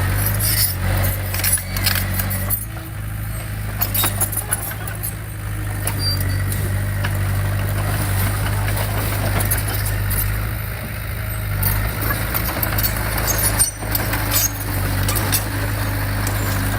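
Bulldozer's diesel engine running steadily at a low, even pitch, with scattered metallic clanks and clicks over it.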